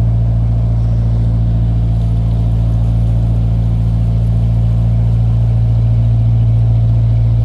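Narrowboat engine running steadily under way, a constant low drone that does not change.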